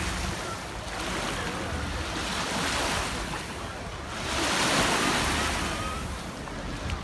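Lake water splashing and sloshing around a kayak in swells about every two seconds, with wind rumbling on the microphone.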